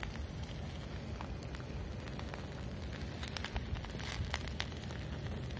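Small campfire of damp kindling crackling: scattered sharp pops and snaps over a steady hiss as the wood begins to catch.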